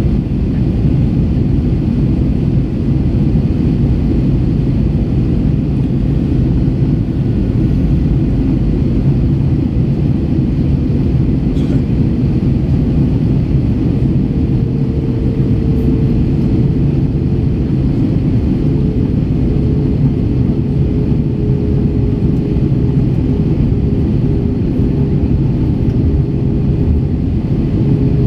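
Steady low rumble of an Airbus A321 in flight, engine and airflow noise heard inside the cabin. A faint steady hum joins about halfway through.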